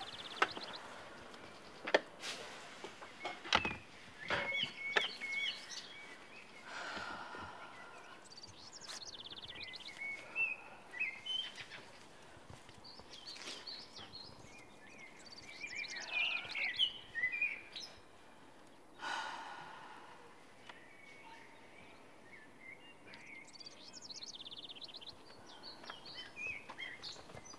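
Birds chirping and singing in short scattered phrases over a quiet outdoor background. A few sharp knocks in the first few seconds, and twice a soft breathy whoosh of about a second.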